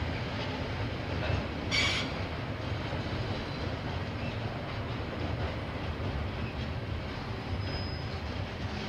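KiwiRail freight wagons rolling past over a bridge: a steady rumble of wheels on the rails, with a sharp clank about two seconds in and a brief high wheel squeal near the end.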